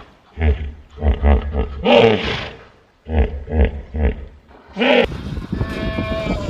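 A farm animal calling: runs of short, low, rhythmic grunt-like pulses, about three or four a second, broken by two longer pitched calls that fall in pitch. Near the end a different sound with steady tones takes over.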